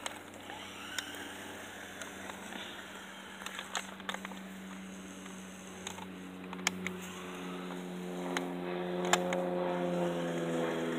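A motor humming at a steady pitch, growing louder over the last few seconds, with scattered sharp clicks and taps.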